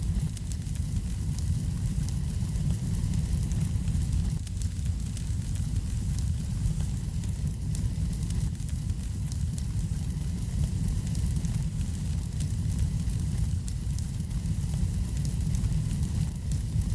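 Wood fire burning in a fireplace: frequent small sharp crackles and pops over a steady low rumble.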